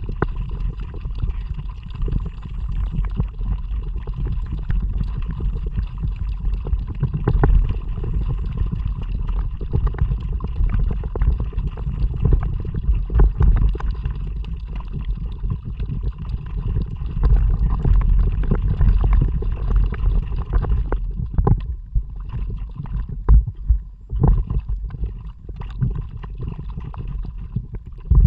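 Kayak out on the water: splashing and gurgling along the hull and paddle, under a heavy low wind rumble on an action camera's microphone. The rumble eases briefly a little past twenty seconds in.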